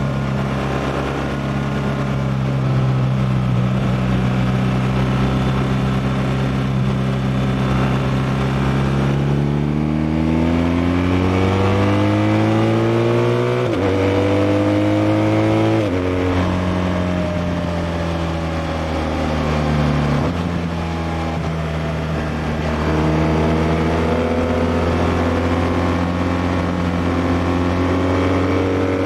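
BMW R1200R's liquid-cooled boxer twin riding along: steady at first, then the revs climb and drop sharply at upshifts about fourteen and sixteen seconds in. The pitch dips again around twenty seconds, then rises slowly as the bike pulls on.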